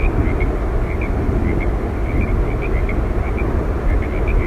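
Steady roar of Yosemite Falls, rushing water heard over a meadow, with short high chirps scattered throughout.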